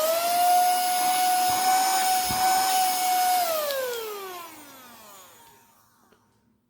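Battery-powered handheld portable vacuum cleaner switched on: its motor whine rises quickly to a steady high pitch, runs for about three seconds, then is switched off and winds down with a falling whine that fades out.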